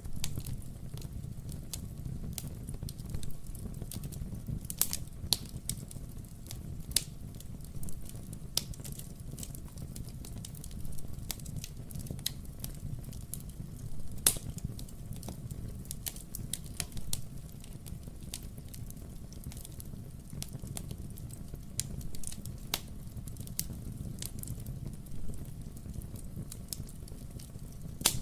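Wood fire burning in a fireplace: a steady low rumble of flames with irregular crackles and sharper pops of burning logs scattered throughout.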